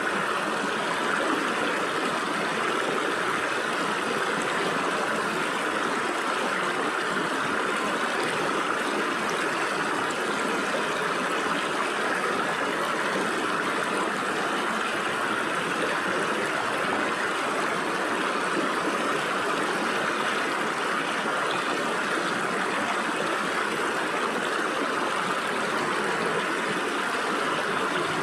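Stream water running through gaps between rocks: a steady, even rushing and babbling.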